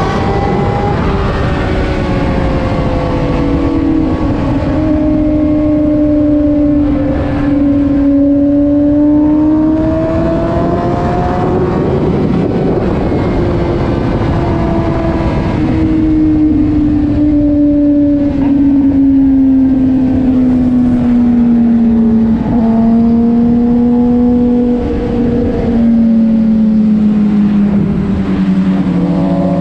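Motorcycle engine running while riding, its pitch slowly rising and falling with speed and dropping steadily near the end, over a constant rushing noise.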